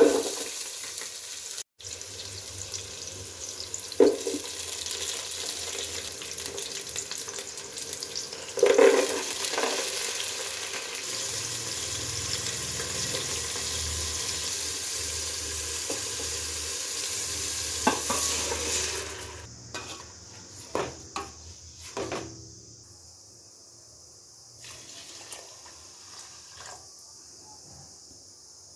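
Food frying and sizzling in hot ghee in a pan while being stirred, with a few sharp knocks of the spoon against the pan. About two-thirds of the way in the sizzling drops away, leaving quieter scattered clicks and knocks.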